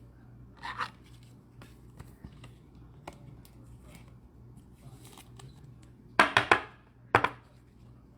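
Trading cards and their plastic sleeves or holders being handled: light clicks and rustles, with a cluster of louder short rustles or knocks near the end.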